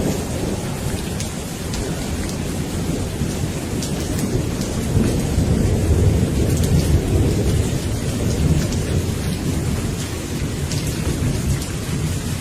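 Steady rain with a long, low rolling rumble of thunder that swells in the middle and eases off toward the end, with scattered drops ticking.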